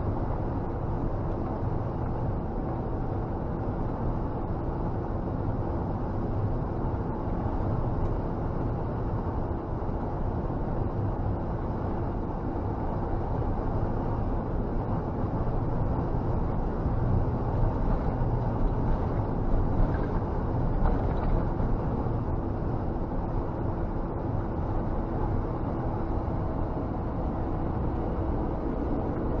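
Scania G460 truck's engine and road noise heard inside the cab while driving: a steady drone with a faint steady hum, rising slightly in level about two-thirds of the way through.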